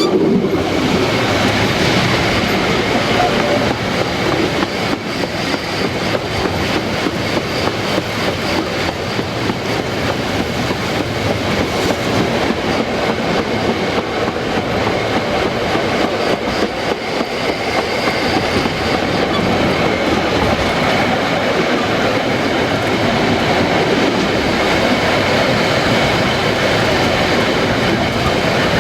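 Narrow-gauge steam train running: a steady loud rumble with a rapid clatter throughout.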